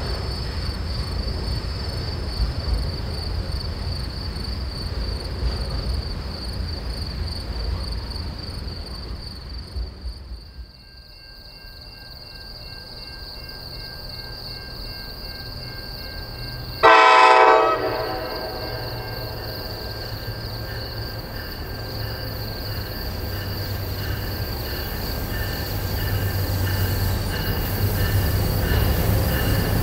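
A freight train's low rumble fades as it rolls away and dies out about a third of the way in. About halfway through comes one short, loud blast on the horn of an approaching NJ Transit ALP-45DP electro-diesel locomotive. The rumble of that train then grows steadily louder as it draws near.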